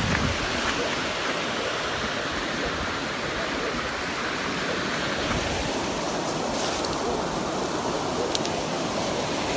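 Steady rushing of floodwater pouring over a washed-out roadway, with a couple of faint ticks in the second half.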